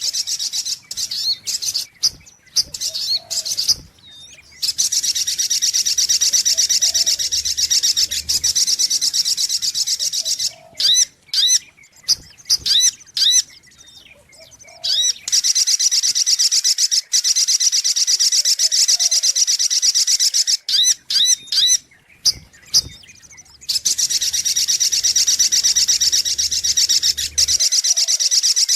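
Sogok ontong bird song played as a looped lure recording: long bouts of a rapid, high trill alternate with short series of sharp separate chips, the same phrases repeating over and over.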